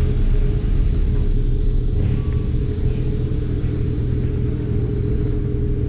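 Sports car engine running steadily, a low continuous drone at an even engine speed.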